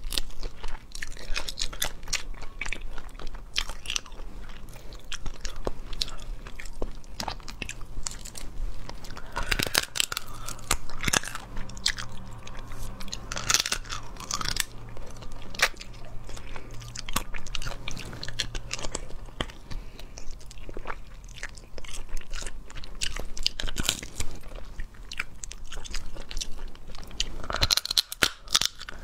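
Close-miked crunching and chewing of spicy crayfish: shells cracking and meat bitten and chewed, with many sharp crunches throughout.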